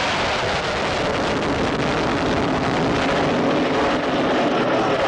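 Aircraft engine noise at an air display, loud and steady, with some wind noise on the microphone.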